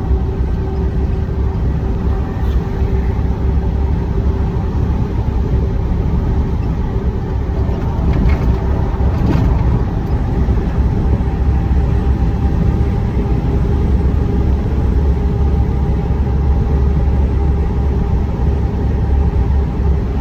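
A truck driving, heard from inside the cab: a steady low engine and road rumble with a constant hum. There is a brief swell with light rattles about eight seconds in.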